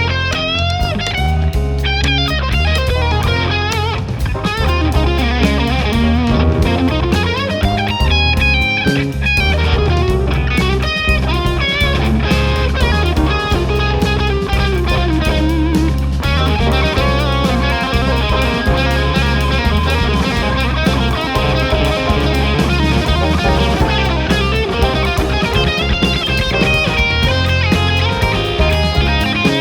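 Jazz combo playing, with an electric guitar carrying the lead over upright or electric bass and a drum kit, and piano and saxophone in the group; the playing grows denser about halfway through.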